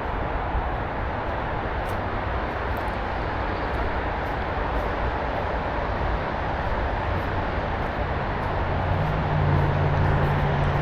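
Steady rumble of distant motor traffic. In the last few seconds a low engine hum comes in and grows louder.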